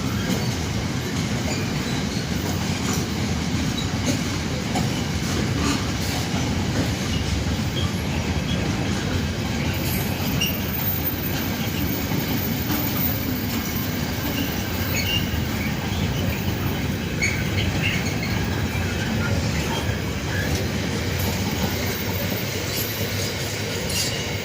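A train passing close by, its wheels rolling steadily over the rails with scattered clicks and faint squeals.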